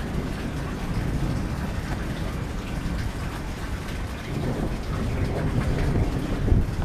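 Steady rain falling, with a low rumble of thunder that swells in the second half.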